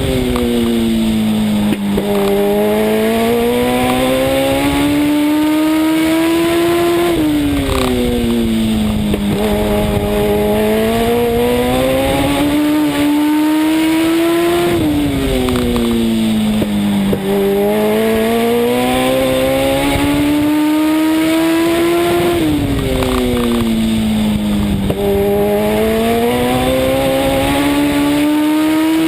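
Legend race car's Yamaha 1200 cc motorcycle engine heard onboard at racing speed. It winds up steadily down each straight, then falls off as the driver lifts for the turn, four times over, about every seven and a half seconds.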